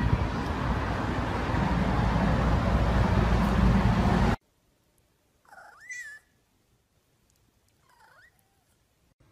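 A steady rushing noise that cuts off abruptly after about four seconds. Then a tabby-and-white domestic cat meows twice: a rising meow about six seconds in and a fainter, shorter one about two seconds later.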